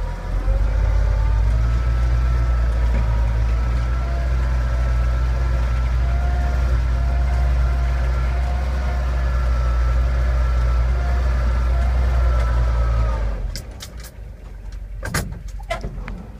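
1946 Chevrolet two-ton truck's Loadmaster 235 straight-six engine running steadily, a deep rumble with a faint wavering whine above it. The sound drops away about 13 seconds in, followed by a few sharp clicks.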